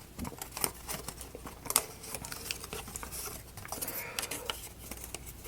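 Light clicks and taps of small wooden model parts being handled and fitted together, with one sharper knock a little under two seconds in.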